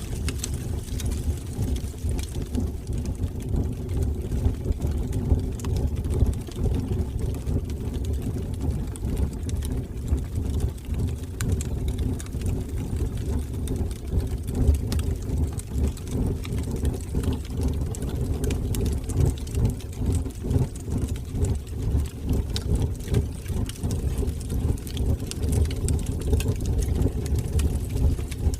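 Wood fire burning in a fireplace: a steady low rumble of flames with many small sharp crackles and pops scattered through it.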